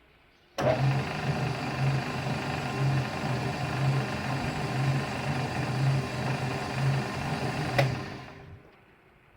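Takeuchi MDD-60 paddle food mixer's three-phase electric drive switched on and running, a steady machine whirr with a low hum that pulses evenly about one and a half times a second. Near the end a sharp click, then it winds down over about a second.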